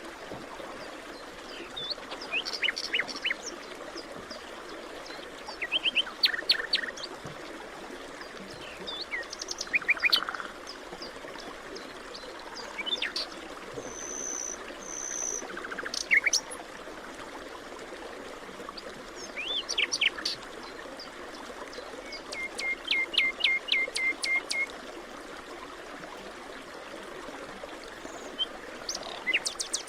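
Forest ambience: several songbirds calling and singing in short phrases every few seconds, over a steady soft background hiss. One bird gives a quick run of about ten even notes a little past the middle.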